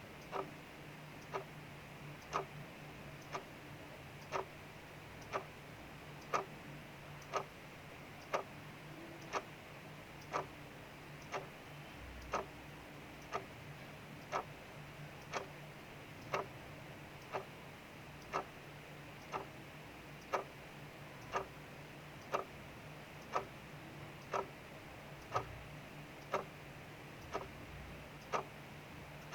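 Clock ticking steadily, about one tick a second, over a faint steady hiss of rain.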